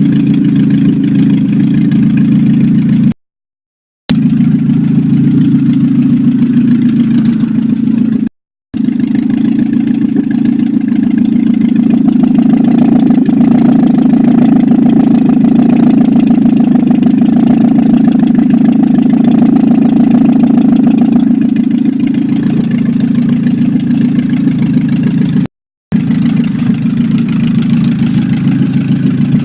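A VAZ-2107 with a swapped-in 16-valve ZMZ-406 inline-four petrol engine, running loud and steady at around idle. The sound breaks off into silence three times for under a second.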